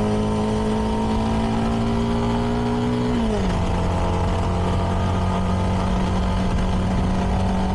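CFMoto 300NK's single-cylinder engine through its stock exhaust, pulling with a slowly rising pitch. About three seconds in the pitch drops quickly, as at an upshift, and the engine then runs steady at the lower pitch.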